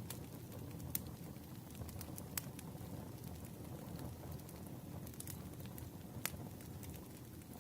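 Campfire burning: a steady low rustle of flames with sharp wood crackles and pops at irregular moments, the loudest about a second in, about two and a half seconds in, and past six seconds.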